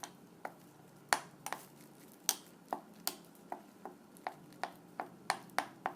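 Spoon tapping and knocking against the side of a container while stirring salt and turmeric into a thick masala paste: a run of short, sharp taps, irregularly spaced at about two or three a second.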